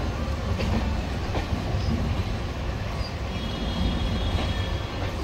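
Jnaneswari Express passenger coach running on the track, heard from its open doorway: a steady low rumble of the wheels with a few sharp clicks over the rail joints.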